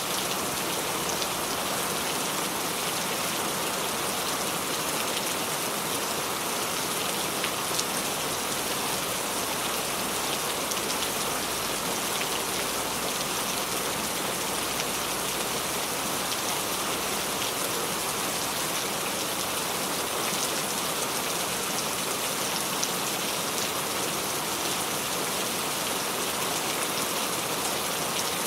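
Steady rain falling on a surface, a continuous hiss with the patter of individual drops.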